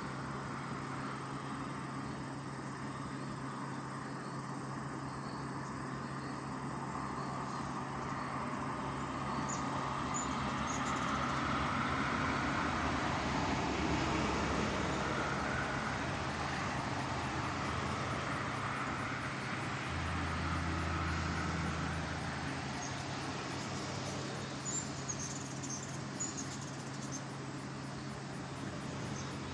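Road traffic noise running steadily, swelling and fading again through the middle, over a steady low hum; a few faint, short high chirps come near the end.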